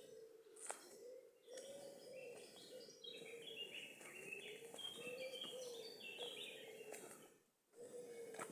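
A songbird singing a long, rapid, jumbled warbling phrase of high notes, faint, over a steady low hum.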